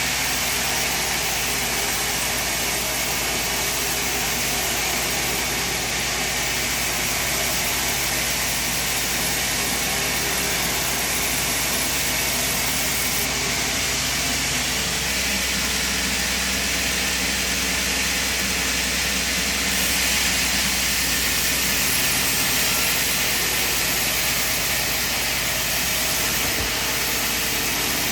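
Sawmill machinery running: a steady mechanical drone with a low hum and a broad hiss, a little louder for a few seconds past the middle.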